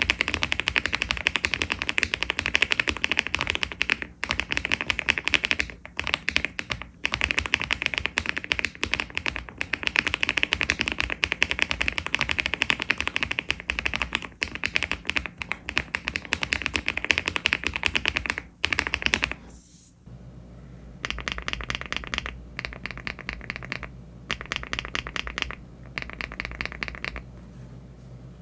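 Fast, continuous typing on a LEOBOG Hi75 aluminium mechanical keyboard fitted with HMX Pebble switches and Cherry-profile keycaps. After a brief pause about twenty seconds in, the typing resumes in shorter runs with gaps, now on HMX EVA switches.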